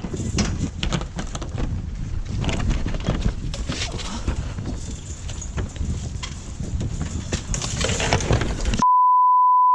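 Irregular knocks, clicks and scuffing of handling and movement, then near the end a steady one-tone censor bleep that cuts in abruptly and lasts about a second.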